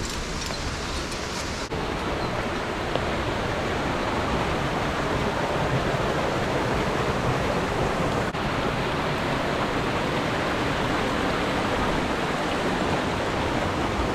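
Mountain stream water rushing steadily as one continuous wash of noise, broken by two momentary drop-outs.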